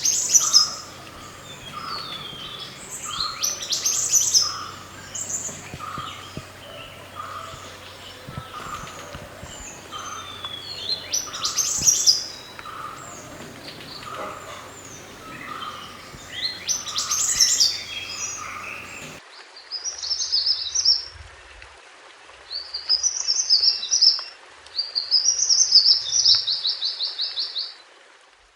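Wild mantenan gunung bird singing: bursts of high, chirpy song phrases every few seconds over a low background hum and a softer note repeating about once a second. About two-thirds of the way through the recording cuts abruptly to a cleaner one, where the song comes as quick trilled phrases.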